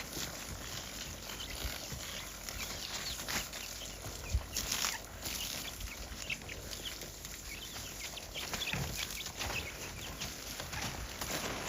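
Many short, high bird chirps over a steady noisy background, with a few soft low thumps.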